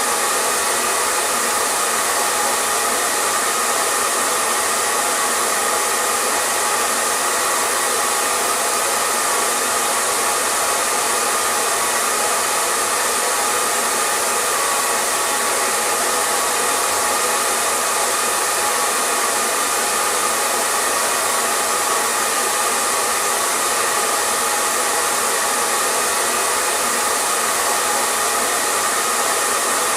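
Hair dryer running steadily: a constant, even rush of airflow with a faint steady motor whine, no change in pitch or level.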